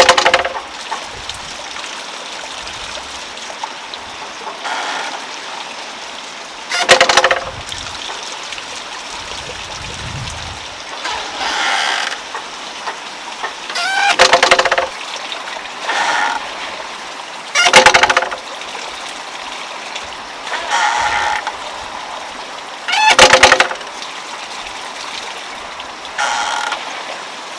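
Domestic geese honking: about ten short calls, one every two to three seconds, over a steady background hiss.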